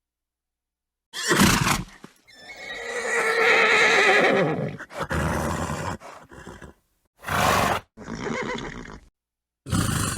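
Horse neighing: a long, wavering whinny starting about two seconds in, with short breathy snorts before and after it, each cut off by silence.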